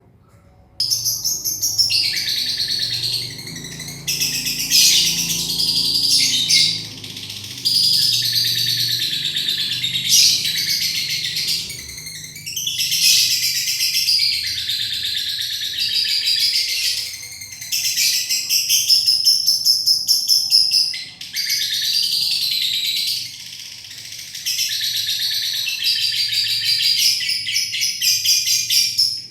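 Lovebird singing its long 'ngekek' song: a rapid, high chattering trill held for several seconds at a stretch, in repeated long phrases with short breaks between them.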